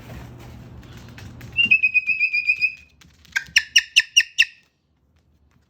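A cockatoo whistling: one held high whistle with a quick flutter in loudness, then a run of about six short, sharp whistled notes. Before the whistling, a faint low hum with light tapping.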